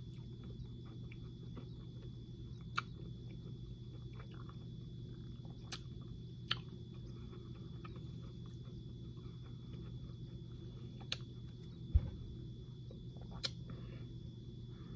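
Faint chewing of small chewy candies (SweeTarts Mini Chewy) over a steady low hum, with a few sharp clicks scattered through, the loudest about twelve seconds in.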